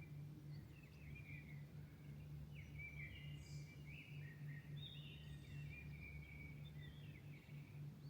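Songbirds singing at dawn: quick warbling, gliding phrases overlap almost continuously. Underneath runs a steady low hum.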